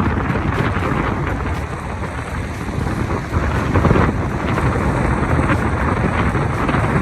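Steady rushing noise of wind on the microphone and a moving vehicle.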